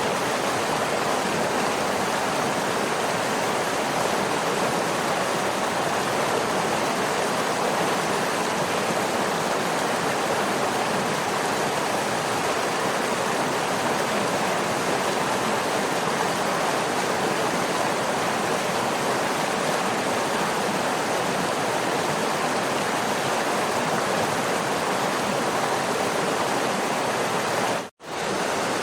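Waterfall rushing, an even, unchanging noise of falling water that cuts out for a split second near the end.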